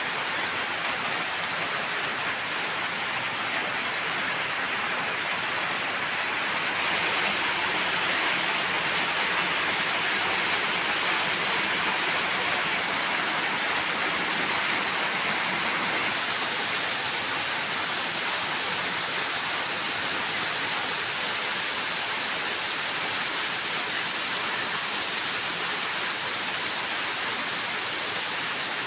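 Steady rain falling, an even hiss with small shifts in tone a couple of times.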